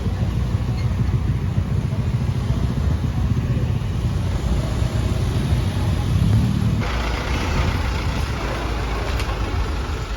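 Vehicle engines running with a low, steady rumble; about seven seconds in a steady hiss joins in.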